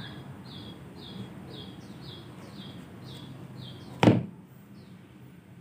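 A small bird chirps over and over in the background, short high falling chirps about twice a second, over a steady low hum. About four seconds in, a single sharp knock sounds as a shoe is set down on the work table.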